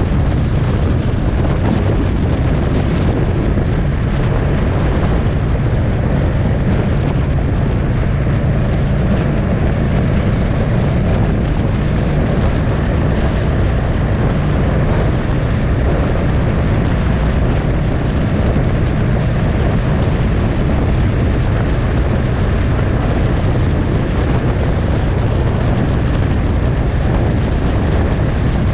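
Motorcycle engine running at a steady cruising speed, with wind rushing over the microphone; the engine note holds even throughout, with no gear changes or revving.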